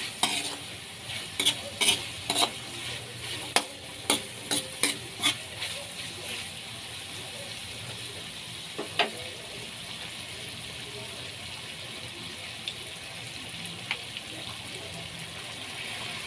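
Pieces of beef mesentery sizzling in oil in an aluminium wok while being stirred with a spatula. A quick run of clicks and scrapes from the spatula against the wok fills the first five seconds or so, then mostly steady sizzling with an occasional click.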